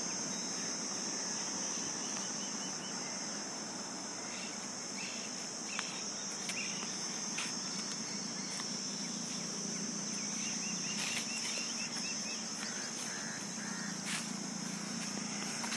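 A steady high-pitched drone of insects, with short runs of quick bird chirps twice, and a few faint clicks.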